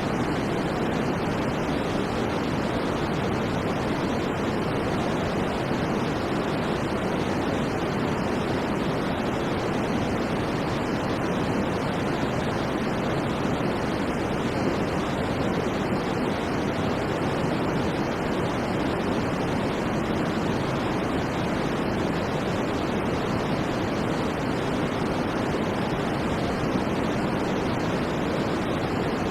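Steady white noise: an even, unchanging hiss with no swells or breaks, fuller in the low and middle range than at the top.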